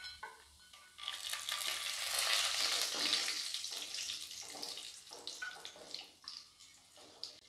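Cashew nuts sizzling in hot oil with mustard seeds and dals in a stainless steel pan, stirred with a wooden spatula during tempering. The sizzle swells about a second in, then dies away over a few seconds, leaving a few light clicks near the end.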